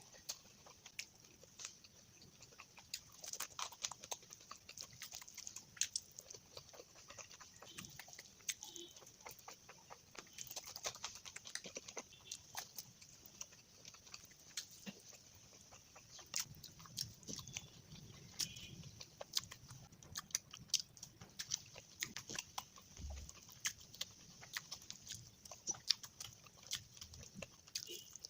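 Close-miked eating sounds: wet chewing and lip smacking, many irregular short clicks and smacks several times a second.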